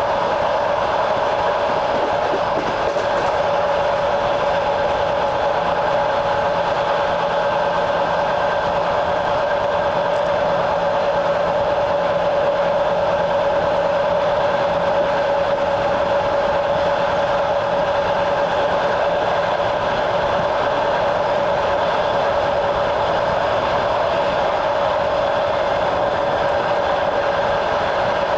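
A train running at a steady speed, heard from on board: an even rolling noise of wheels on rails with a held tone running through it.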